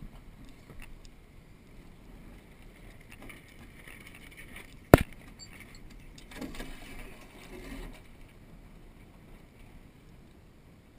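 A single sharp knock about five seconds in, over a faint steady background of wind and water noise, followed by a couple of seconds of louder rustling.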